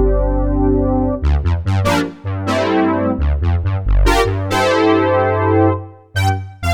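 Roland JX-8P analog polyphonic synthesizer playing a factory patch with a deep bass: a held chord, then a run of sharply struck notes and chords, the last chord fading out about six seconds in, followed by short staccato notes. Light reverb is added.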